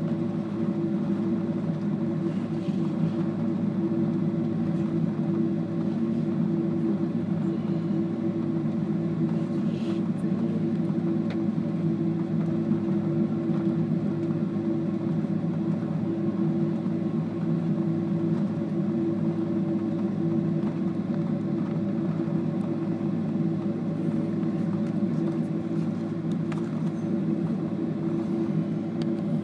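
Steady cabin noise of a jet airliner taxiing after landing, with the engines at idle. It is a constant low hum with a steady mid-low tone, unchanging throughout.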